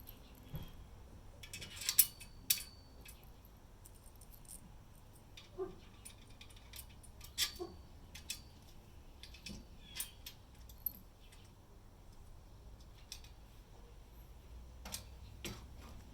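Small metal objects clinking and knocking now and then, with the loudest clinks about two seconds in and again about seven seconds in, some of them ringing briefly.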